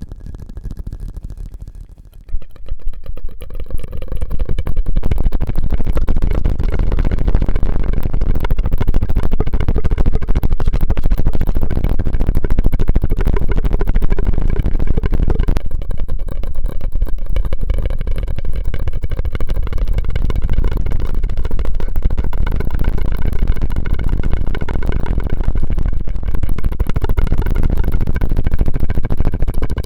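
ASMR mouth and straw sounds close to the microphone: a loud, rushing, crackly stream of air through a straw. It starts quietly and swells about two seconds in, then stays steady.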